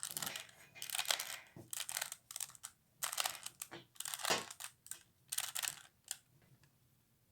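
Plastic 3x3x3 Rubik's Cube layers being twisted in quick succession: a run of clicking turns, in short clusters, that stops about six seconds in.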